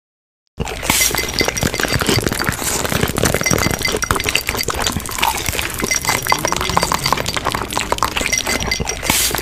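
Dense, continuous clattering and clinking, a rapid jumble of sharp clicks and crackles like breaking or jostling glass, starting suddenly about half a second in.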